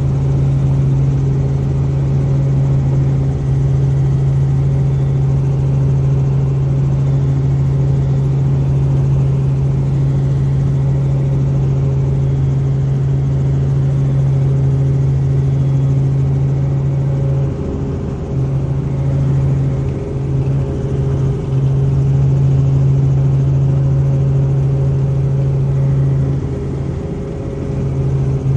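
Helicopter in flight heard from inside the cabin: a loud, steady drone with a strong low hum. It wavers and dips a little about two-thirds of the way through and again near the end.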